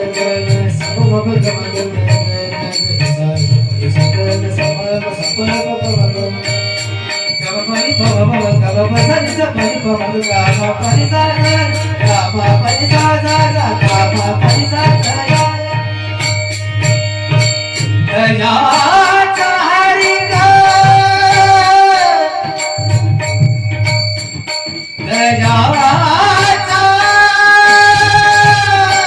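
Marathi Varkari bhajan music: a tabla rhythm with small hand cymbals ringing throughout. A strong held melody line comes in about 18 seconds in, drops out briefly around 23 to 25 seconds, and returns.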